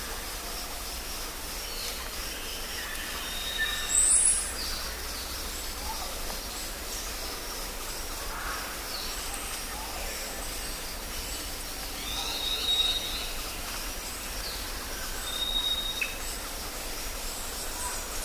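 South American tropical rainforest ambience: a dense, steady chorus of insects and birds, with many short calls. A loud rising call stands out about four seconds in, and long, thin, high whistled notes come several times, with a low steady rumble underneath.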